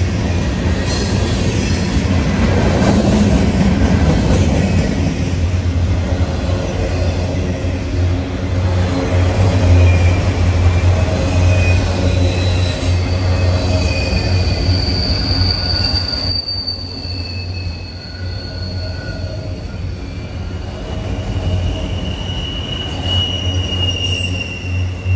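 Norfolk Southern freight train's cars rolling past on steel rails: a steady rumble with high-pitched wheel squeals that come and go, one held for a few seconds around the middle and another near the end.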